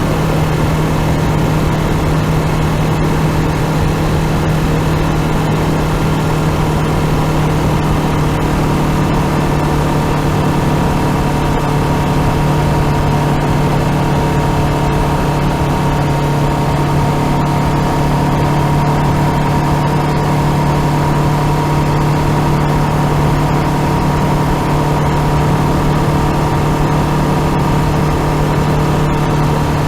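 Honda CBR500R parallel-twin engine running at steady revs while riding, its pitch holding level, over a constant rush of noise.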